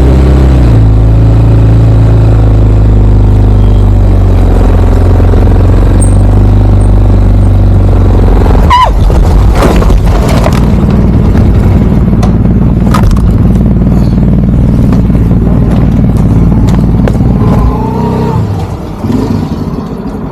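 Motorcycle engine running steadily while riding. About nine seconds in comes a sliding scrape and clatter, with knocks over the next few seconds, as the bike slips and goes down on the road. The steady engine sound stops near the end.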